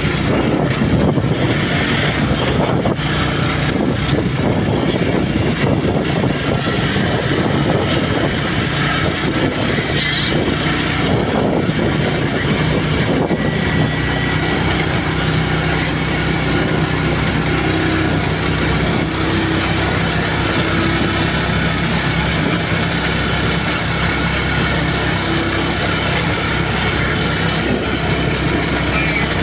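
Motorcycle engine of a sidecar tricycle running steadily on the move, a low even drone with wind and road noise over it.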